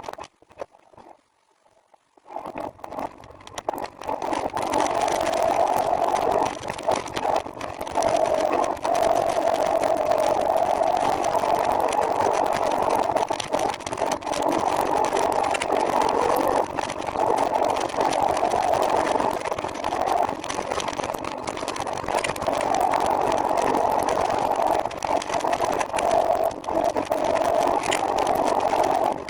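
Near silence for about two seconds, then a trike's engine and riding noise come in and run steadily, with scattered rattling clicks.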